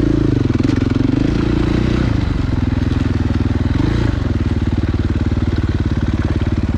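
Enduro dirt bike engine running at low revs: the pitch wavers up and down in the first couple of seconds as the throttle is worked, then settles to a steady idle.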